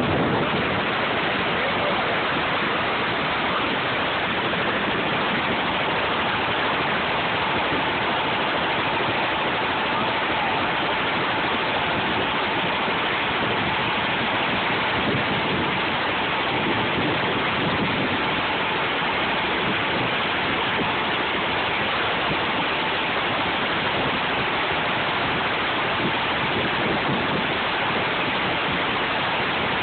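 Helicopter running: a loud, unbroken rushing roar with a faint steady whine through it.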